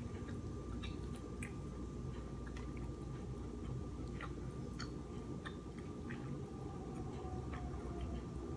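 Close-up chewing of king crab meat, with scattered small wet mouth clicks and smacks.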